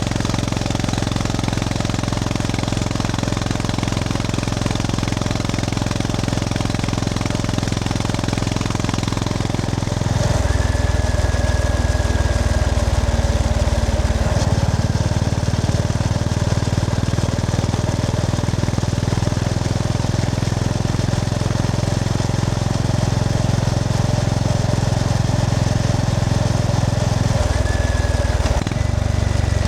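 Honda GB350S's air-cooled single-cylinder engine running under way. The engine note changes abruptly about ten seconds in, again at about fourteen seconds, and twice near the end.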